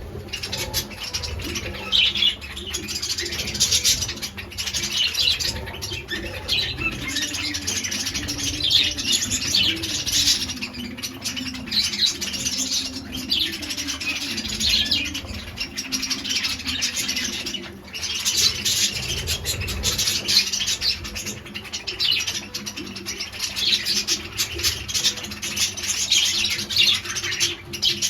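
A flock of lovebirds chirping and chattering constantly, many high, short calls overlapping without a break.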